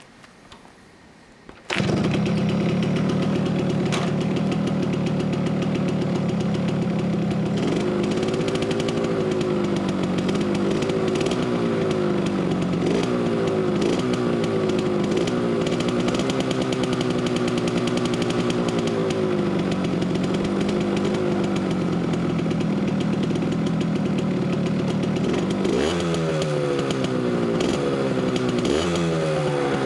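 Yamaha GR50 minibike's two-stroke 50 cc RD50 engine starting abruptly about two seconds in, then running with throttle blips that raise and drop its pitch. Near the end it accelerates repeatedly, the pitch rising then falling back, as it pulls away through the gears.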